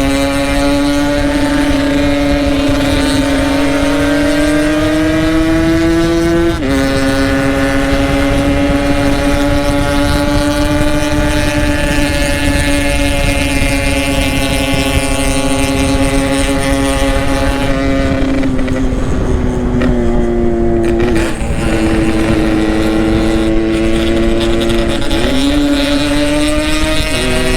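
Yamaha RX-King two-stroke single-cylinder motorcycle with an aftermarket Boban exhaust, running at steady cruising revs under wind noise. About six and a half seconds in its pitch drops suddenly, as at an upshift. In the last third the revs sag, then rise again in two steps.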